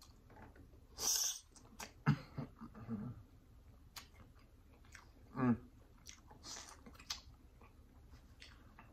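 Close-up eating sounds of king crab meat: wet chewing, biting and lip smacks, with scattered sharp clicks and a hissy slurp-like burst about a second in. A short voiced sound like an 'mm' comes a little after halfway.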